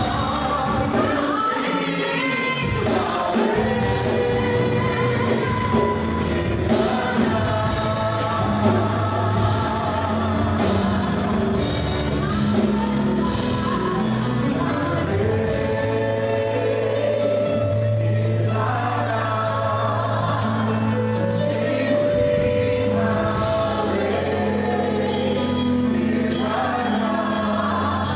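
Gospel music: a choir singing held, wavering notes over instrumental backing with a steady bass.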